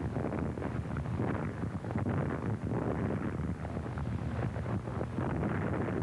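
A loud, steady rumble with dense crackling on an old, low-grade film soundtrack, with no speech.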